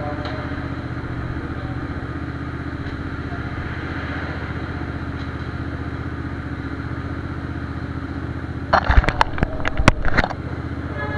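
Hyosung GV250's V-twin engine idling steadily. A quick cluster of loud knocks comes about nine seconds in.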